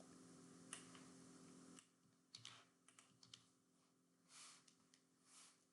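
Faint computer keyboard typing: a handful of scattered key clicks about two seconds in, followed by two soft swishes. A faint steady electrical hum runs underneath for the first couple of seconds, then drops away.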